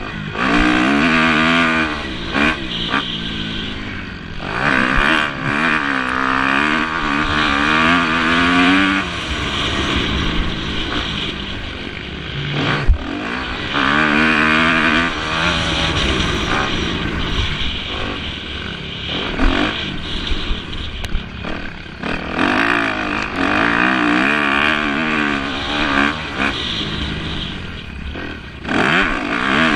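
Motocross motorcycles racing past, engines revving up and down over and over as riders accelerate and shift, with a short sharp knock about thirteen seconds in.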